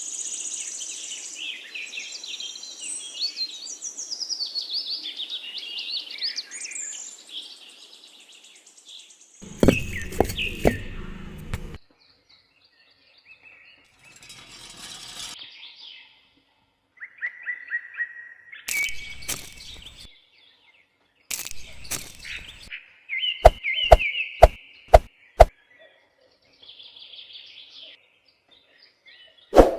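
Birds chirping, in short stretches broken by sudden cuts to silence. There is a burst of loud knocking about a third of the way in, and a quick run of about five sharp clicks later on.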